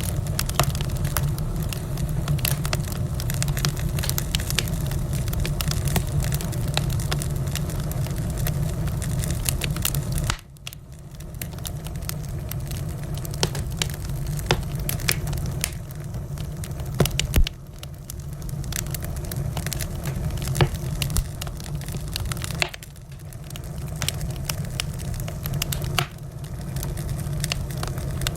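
Wood fire crackling in a fireplace: many sharp pops and snaps over a low steady rumble. The rumble drops away suddenly a few times, about a third of the way in, just past halfway and about four-fifths of the way through.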